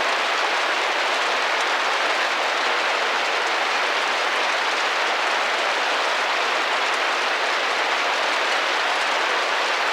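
Steady rain drumming and tapping on a window pane, a dense even patter with no single drops standing out.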